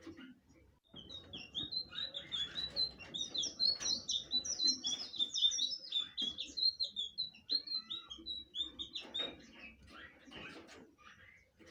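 Blue flycatcher (sikatan biru) singing a fast, chattering run of high, quick twittering notes that starts about a second in and lasts about eight seconds, with a few lower falling notes near the end.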